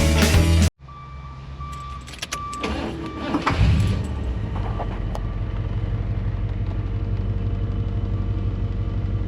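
Ford 460 cubic-inch V8 starting up about three and a half seconds in and settling into a steady idle. Before it come clicks and a short beeping chime.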